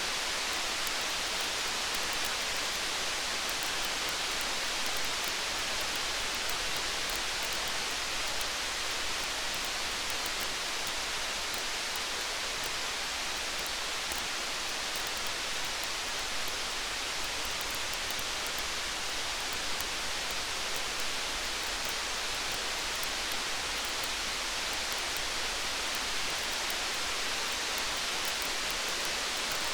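Steady rain falling as an even hiss, with faint high crackling ticks from a campfire scattered throughout.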